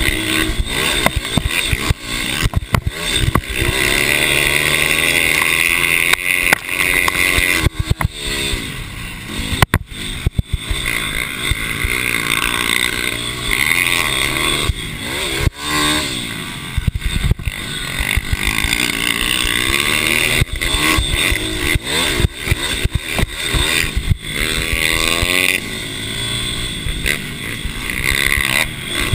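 Small mini bike racing engines revving up and down through the gears as the bikes race, with the pitch rising and falling repeatedly.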